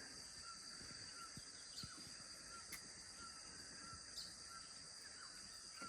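Faint rainforest chorus at dusk: a steady high-pitched drone of insects with a regular series of short chirps and a few brief falling whistles.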